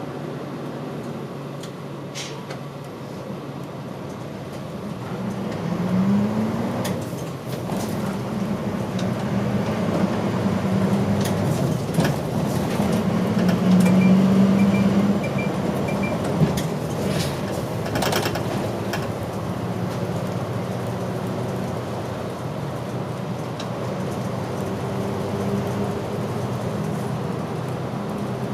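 Diesel engine of a route bus heard from inside the cabin while driving; the engine note rises about six seconds in and is loudest around the middle, with scattered rattles and clicks. Four short high beeps sound near the middle.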